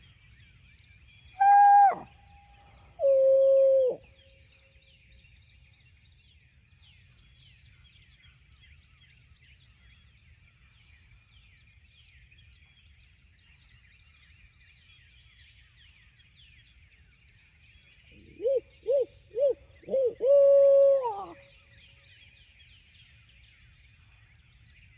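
Barred-owl-style hoots, loud and close, from an owl locator call used to make turkeys gobble. There are two long hoots, the second lower, then about 18 s in four short hoots and a long drawn-out hoot that drops off at the end. Throughout there is a faint, steady high chirping chorus.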